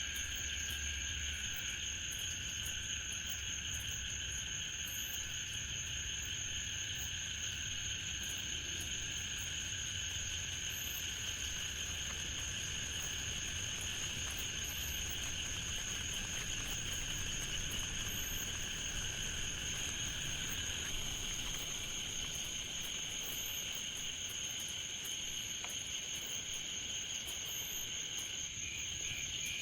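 A steady chorus of calling insects, several continuous high-pitched trills at different pitches layered over a faint even hiss; the lowest of the trills stops about two-thirds of the way through.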